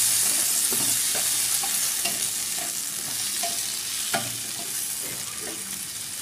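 Diced onion and green capsicum sizzling in hot oil in a steel wok while being stirred, the spatula knocking and scraping against the pan now and then. The sizzle slowly dies down.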